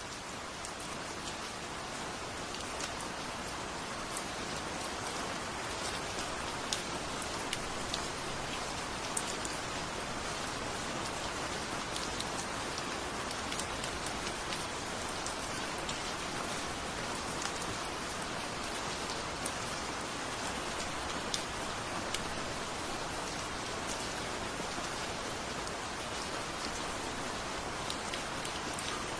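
Steady rainfall, an even hiss with individual drops ticking sharply now and then.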